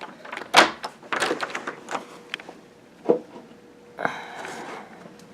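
A door being unlatched and opened: a series of knocks and clicks, the loudest about half a second in, then a short rush of noise about four seconds in.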